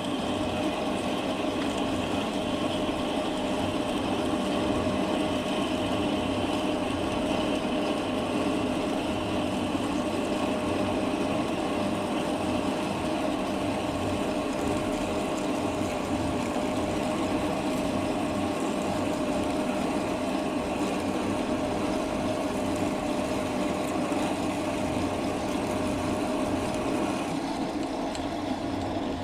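Metal lathe running steadily, with a constant whine over its motor and gear noise. A higher part of the sound drops away a little before the end.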